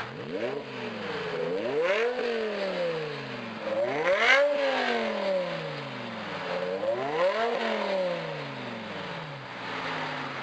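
2007 BMW M6's V10 engine through a Meisterschaft GT exhaust with quad oval tips, revving up three times, each time falling back slowly.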